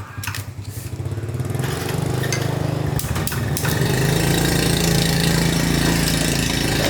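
Small four-stroke motorbike engine running. It dips briefly right at the start, then picks up and runs louder and steady from about four seconds in.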